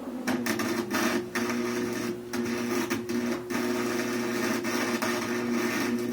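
Wire-feed welder running on the thin sheet-metal rear window frame of a 1948 Mercury pickup: a steady crackle of the arc over the hum of the welder. It is broken by two short pauses, about two and three and a half seconds in.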